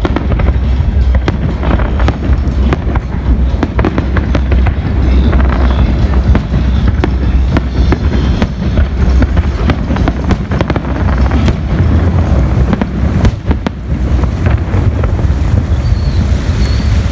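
Fireworks display: many bangs in quick, irregular succession over a continuous low rumble.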